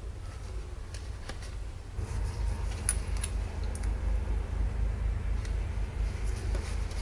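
Scattered light clicks and clinks of small metal parts being handled, over a low rumble that gets louder about two seconds in.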